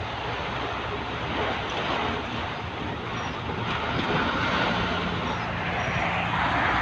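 Heavy rain on a moving vehicle, heard from inside the cab: a steady rush of rain and wet-road spray over the low running of the engine.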